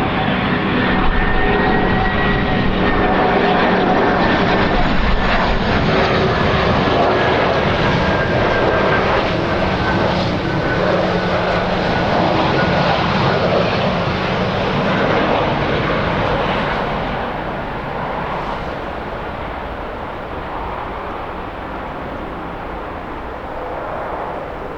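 Jet airliner's engines running loud as it passes, a dense roar with steady whining tones that drift slightly lower, fading gradually over the last several seconds.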